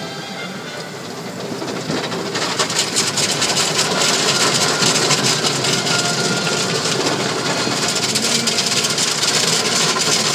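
Car wash equipment running loudly over the car, a steady rushing of spray and machinery that swells about two seconds in and then holds.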